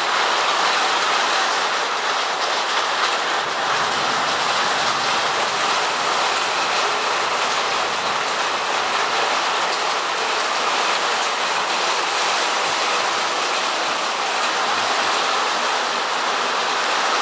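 Heavy rain pouring down steadily in a thunderstorm, a dense, even hiss with no breaks.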